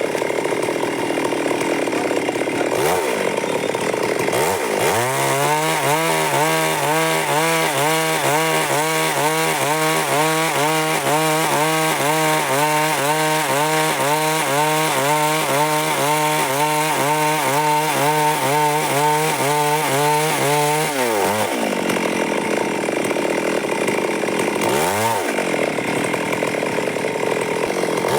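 Stihl MS 382 two-stroke chainsaw running and sawing through wood. Its engine note dips and recovers briefly a few times. Through most of the middle it holds an even tone that rises and falls about once a second.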